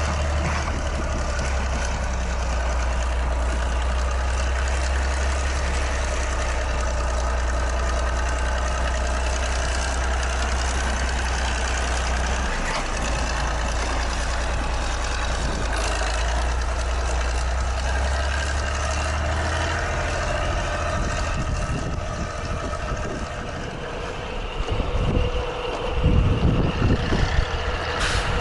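Heavy diesel tractor engine running steadily, then uneven with low thumps in the last few seconds.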